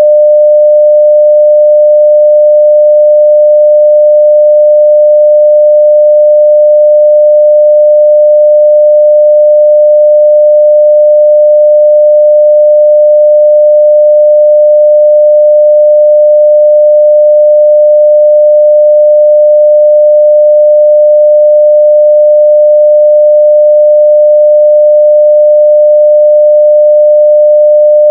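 A steady 600 Hz sine-wave test tone at full level (0 dB), one unchanging pitch.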